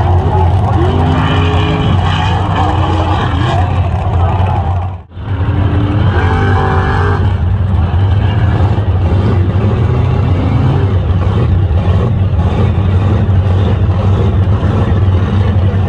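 Mega truck engine running loud with a deep, steady rumble, voices heard faintly over it. The sound cuts out for a moment about five seconds in.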